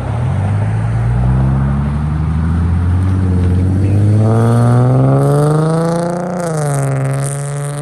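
A car engine accelerates, its pitch climbing steadily for about six seconds. The pitch drops briefly about six seconds in, as at a gear change, then pulls on steadily.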